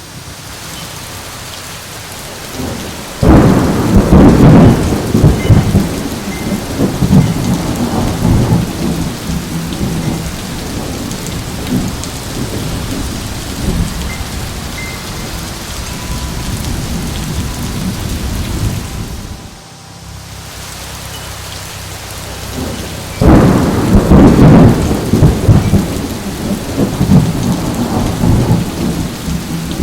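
Heavy rain of a severe thunderstorm pouring steadily, with two loud rolls of thunder: one breaking about three seconds in and rumbling for several seconds, the other near the end.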